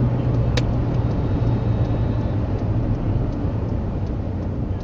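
Car engine and road noise inside a moving car: a steady low drone, with a single sharp click about half a second in.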